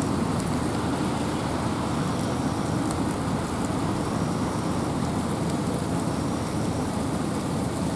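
Steady rain falling in a forest with wind, a dense, even rushing heavy in the low end, with faint scattered drop ticks.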